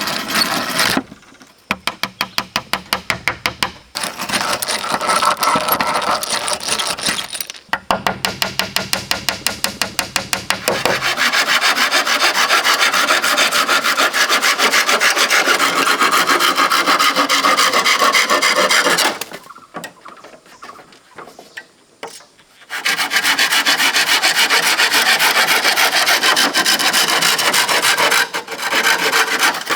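A hand tool working wood in quick rasping strokes, about five a second, in long bursts separated by short pauses.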